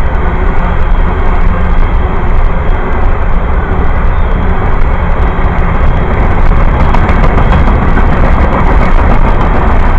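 Long train rolling past close by: a loud, steady rumble of the cars on the rails, with rapid clicking from the wheels in the second half.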